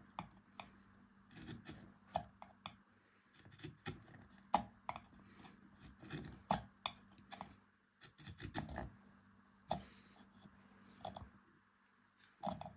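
Carving tool cutting and scraping into beech wood in short, irregular strokes, each a sharp scratchy click.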